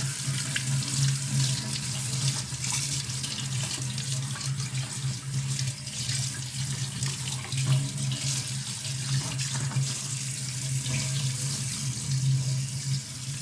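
Tap water running hard into a kitchen sink, splashing over a dishwasher part held under the stream. It is a thorough rinse meant to flush out any clogging in the part's small pores.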